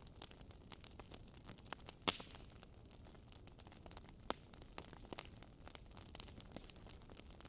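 Wood fire crackling in a fireplace: a faint bed of small crackles with scattered sharper pops, the loudest about two seconds in and another just after four seconds.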